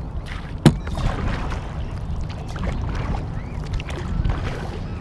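Paddling a sit-inside sea kayak: the paddle splashing and dripping water over a steady low rumble, with one sharp knock about two-thirds of a second in.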